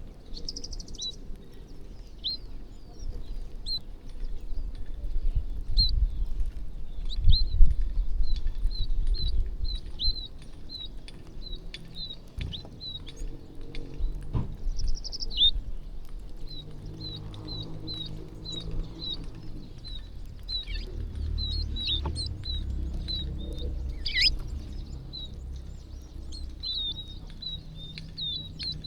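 Many small birds chirping, short high chirps following one another every fraction of a second, over a low rumble that swells about a quarter of the way in.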